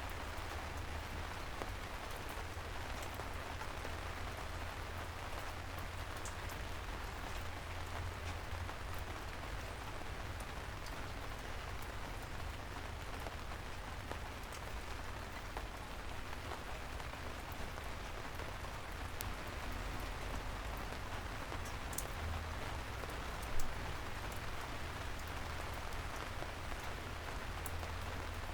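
Steady soft rain falling on a city street, an even hiss dotted with the clicks of single drops over a low rumble. One louder tap stands out near the end.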